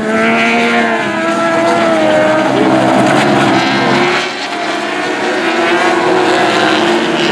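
Racing engines running hard on track, their pitch rising and falling with the revs.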